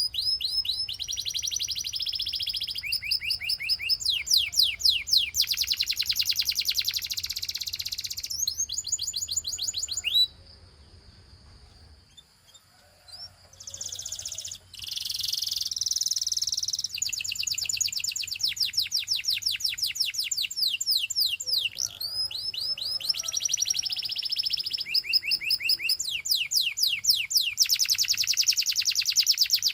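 Canary singing long, fast trills, each a rapid run of the same note repeated, passing from one trill to the next. The song stops for a few seconds about a third of the way in, then resumes.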